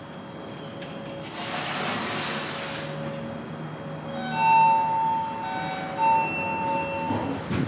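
Thyssenkrupp elevator car's electronic signal tones: a steady, clear tone sounding in two spells, broken briefly in the middle, after a short rushing noise from the car about a second and a half in.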